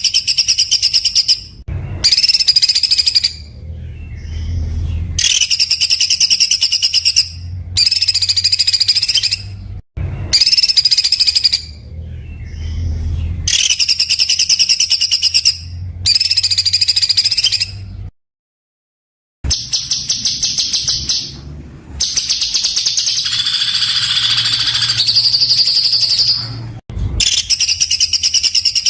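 Songbird song made of harsh, very rapid rattling bursts ('tembakan'), each about two seconds long and repeated after short pauses; the sound cuts out completely for about a second and a half around two-thirds of the way through.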